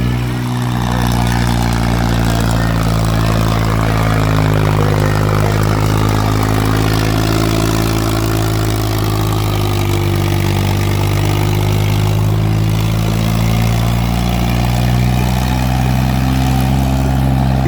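Ghazi tractor engine running steadily under load while pulling a disc harrow. Its note sags slightly and recovers around the middle.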